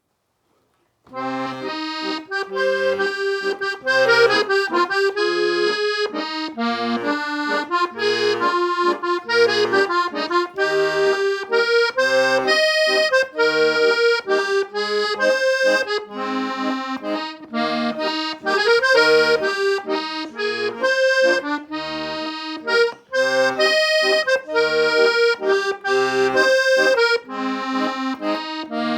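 Solo accordion playing a waltz tune, the melody over regularly spaced bass notes and chords, starting about a second in.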